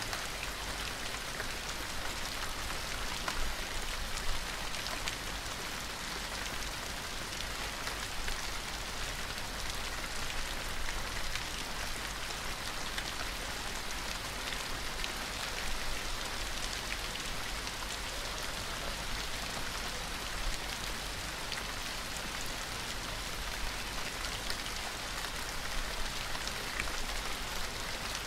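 Steady gentle rain falling on a surface, with scattered individual drop ticks.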